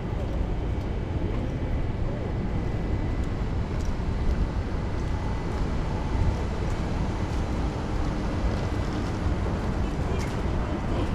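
Rainy, windy city street ambience: a steady low rumble of strong wind and road traffic.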